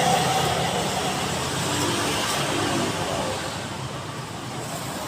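A car running, with a steady mix of engine and road noise that eases off slightly toward the end.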